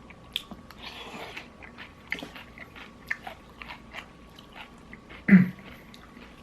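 Close-up biting and chewing of crispy fried chicken: irregular small crunches and wet mouth clicks. A louder short sound stands out about five seconds in.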